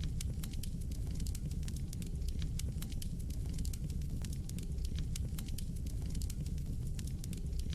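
Wood fire burning in a fireplace, crackling and popping with many irregular small snaps over a steady low rumble of the flames.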